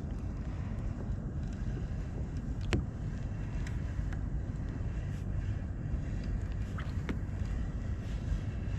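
Wind buffeting the microphone as a steady low rumble, with a couple of faint sharp ticks.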